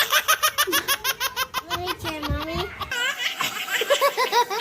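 Hearty, high-pitched laughter in rapid repeated bursts, breaking into longer drawn-out laughs about halfway through.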